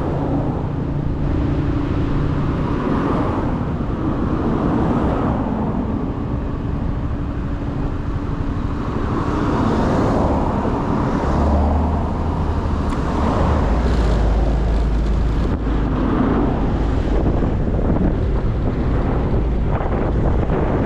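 Motorcycle engine running while riding in road traffic, its pitch shifting with throttle and speed. About halfway through, a heavy low rumble of wind on the microphone grows in.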